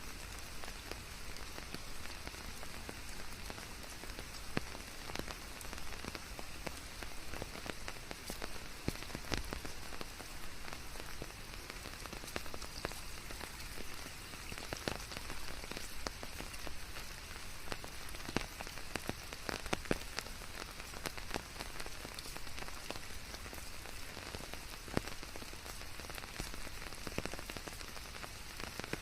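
Steady rain falling on leaves, a constant hiss with many separate drops pattering on top.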